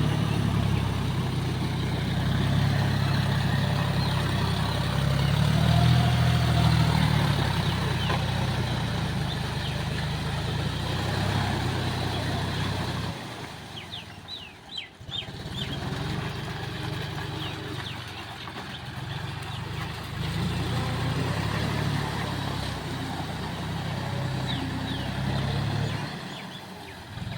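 Tractor engine running steadily, its level swelling and easing, and dropping away briefly about halfway through and again near the end.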